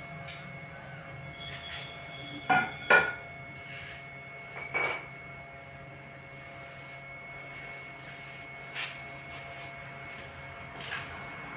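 A few sharp metallic clinks and knocks from tools or parts being handled: two close together about two and a half seconds in, and a ringing clink near five seconds, over a steady background hum.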